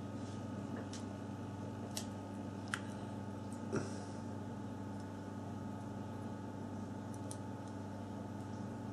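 A few small, sharp clicks and ticks from work on a Samsung Galaxy S4's circuit board as its components are taken off, the loudest a little under four seconds in, over a steady hum.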